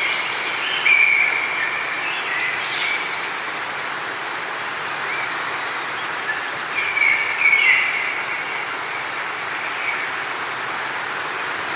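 Steady rush of flowing water, with birds singing over it in short phrases during the first few seconds and again about seven seconds in.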